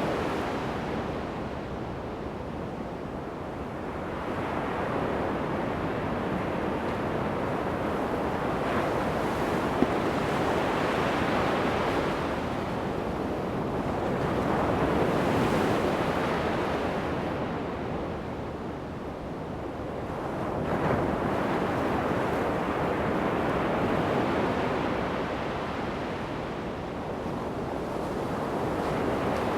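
Ocean waves breaking and washing up a sandy beach, the surf swelling and ebbing every several seconds. Light wind on the microphone. A brief click about ten seconds in.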